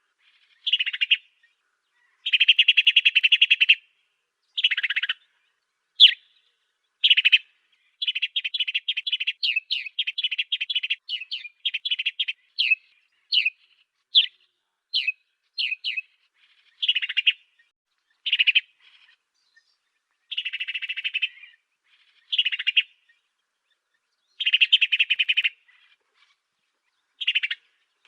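Sparrow, sold as an 'African sparrow', singing in repeated phrases: dense bursts of rapid buzzy chirps about a second long alternate with single sharp chirps and quick runs of short separate notes, with clean pauses between phrases.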